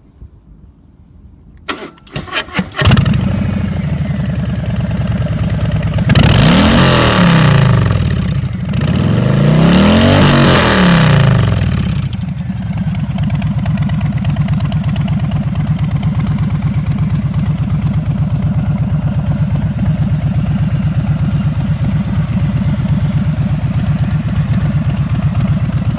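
Harley-Davidson Breakout FXBRS's Milwaukee-Eight V-twin, breathing through a Blow Performance Kutbak slip-on exhaust, cranks on the starter about two seconds in and catches. It settles into a loping idle, is revved up and back down twice, then idles steadily.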